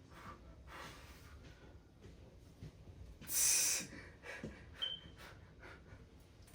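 A man breathing hard through a strenuous weightlifting set, with short forceful exhales; the loudest comes about three seconds in.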